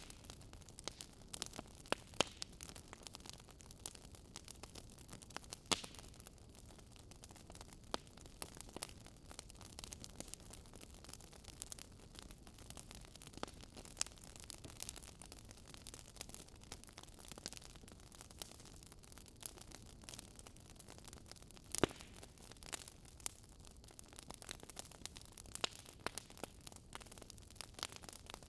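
Wood fire crackling in a fireplace: irregular small pops and snaps over a faint hiss, with a few sharper, louder pops.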